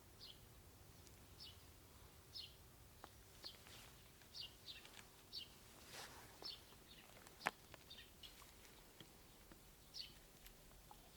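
Faint bird calls: a short high chirp, falling in pitch, repeated about once a second. One sharp click about seven seconds in.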